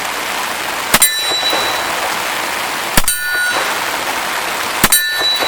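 Cimarron Frontier single-action .45 Colt revolver fired three times about two seconds apart, each shot followed by the ring of a steel target being hit. Steady rain hiss underneath.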